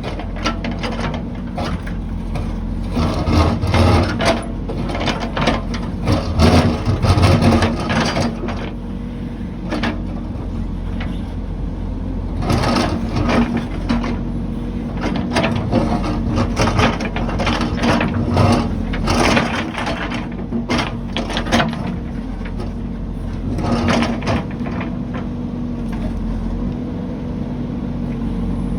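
Heavy construction machine's diesel engine running steadily, with repeated metallic clanks and knocks from the working machine coming in clusters over it.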